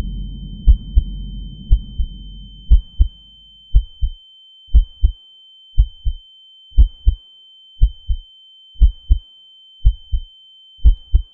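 Heartbeat sound effect: a steady double thump, lub-dub, about once a second, under a constant high-pitched ringing tone. A low drone fades away over the first few seconds.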